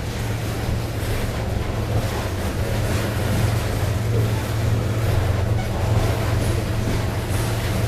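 Freight train rolling past with a steady low rumble and rail noise.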